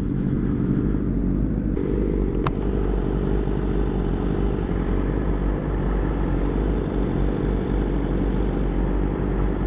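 Honda CBR600RR inline-four sport-bike engine running steadily while riding, heard from inside the rider's helmet. A single brief click comes about two and a half seconds in.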